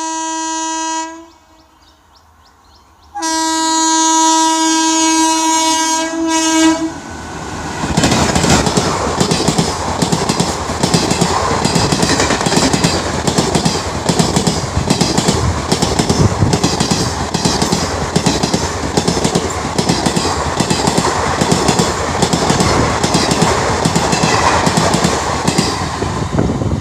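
Indian Railways locomotive horn blowing twice, a short blast ending about a second in, then a longer one of about three seconds. Then a train passes at speed, its wheels clattering steadily over the rail joints.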